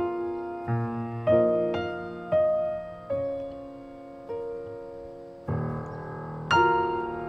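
Slow, gentle piano music: single notes and chords struck one after another and left to ring out and fade.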